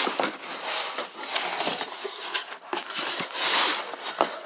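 Rustling and scraping of a cardboard muffler box and its packing being handled, with a few light knocks.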